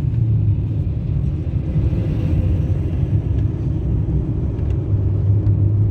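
Car driving on a road, heard from inside the cabin: a steady low engine drone with road noise.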